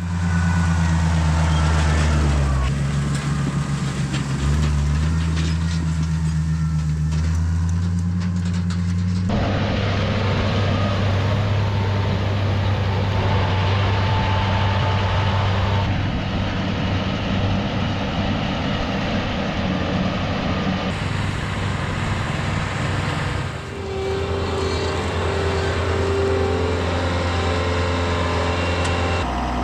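Tractor engines running steadily, heard across several short clips cut together. The engine pitch steps up and down between clips, with sharp changes about a third of the way in and again past two thirds.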